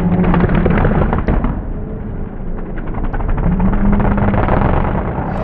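Mega mud truck engine running hard, with rapid sharp crackling pops throughout and the engine tone dropping away and coming back.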